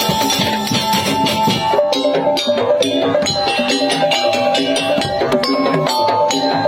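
Madurese ul-daul ensemble playing: a saronen, a reed shawm, carries a melody of held notes that step from pitch to pitch over fast, steady percussion of drums and wooden beaters.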